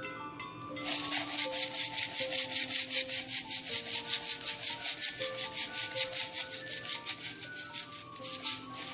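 Julienned radish being rubbed and tossed with salt by hand, a fast, even rhythmic rubbing of about five strokes a second that starts about a second in. Background music plays underneath.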